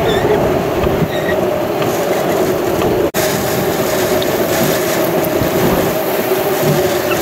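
Extreme rear-flank downdraft wind of a supercell blowing hard around the storm chaser's vehicle: a loud, steady, train-like rush. The sound cuts out for an instant about three seconds in.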